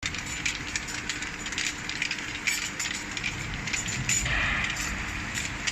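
Automatic bottle washing machine running, with glass antibiotic bottles clinking and rattling as they move through it over a steady machine hum. A louder hiss comes in about four seconds in.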